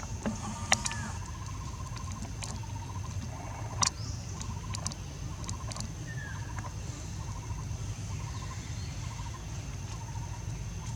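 Outdoor ambience: a steady high thin whine over a low rumble, with short pulsed chirps recurring every second or so and a few sharp clicks, the loudest about a second in and about four seconds in.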